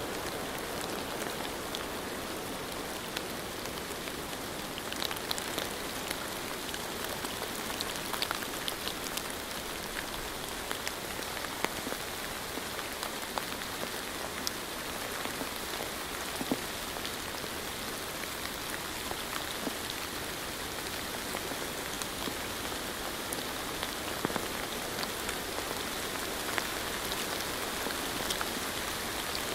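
Steady rain falling, an even hiss of rainfall with many separate drops ticking on a hard surface.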